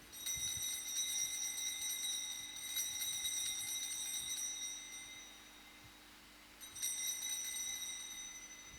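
Altar bells shaken at the elevation of the consecrated host: a long peal of high ringing, then after a short pause a second, shorter peal.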